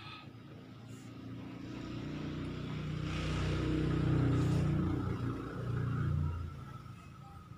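A motor vehicle passing by: its engine grows louder over about three seconds, then fades away.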